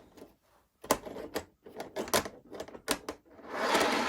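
A model train boxcar and its packaging being handled by hand: a series of sharp clicks and taps, then a longer rustling scrape near the end.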